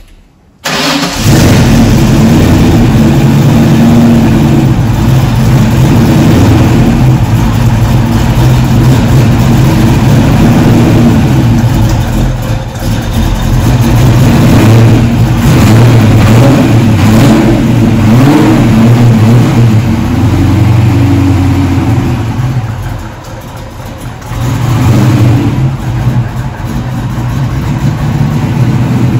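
Fox-body Ford Mustang's engine starting about a second in, then running loud with blips of the throttle as the car is backed out. It drops off briefly near the end, then picks up again.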